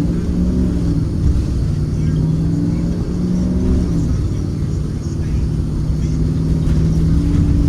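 2023 Blue Bird Vision school bus's Ford 7.3L gasoline V8 running at a steady speed, heard from inside the bus as a low drone with a steady hum; faint voices in the background.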